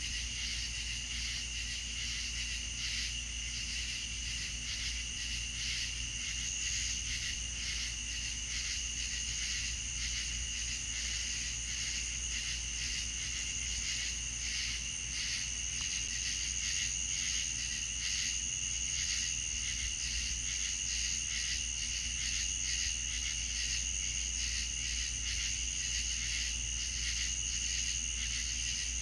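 A steady insect chorus: continuous, rapidly pulsing high-pitched trilling at two pitches, over a steady low rumble.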